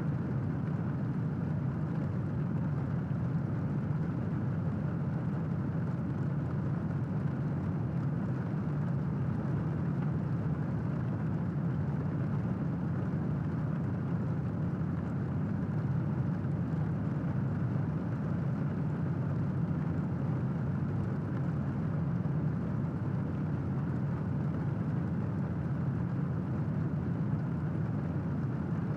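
Steady rain, an even noise that is heaviest in the low end, with no thunderclap.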